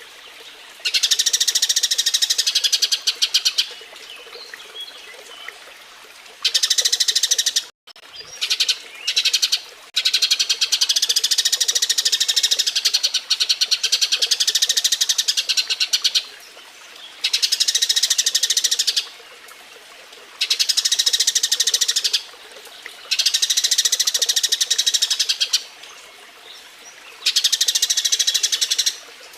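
Eurasian tree sparrows (burung gereja) chattering in rapid, excited chirping bouts a few seconds long, separated by short pauses: the mating chatter of a courting pair.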